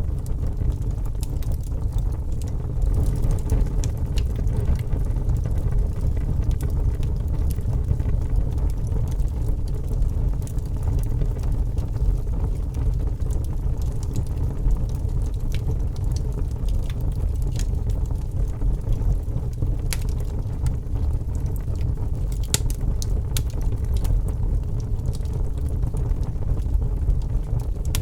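Log fire burning in a fireplace: a steady low rumble of the flames, with a few faint crackles and pops from the wood.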